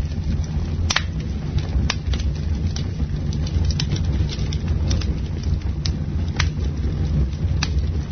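Campfire burning: a steady low rumble of flames with sharp, irregular pops and crackles of burning wood, about half a dozen of them.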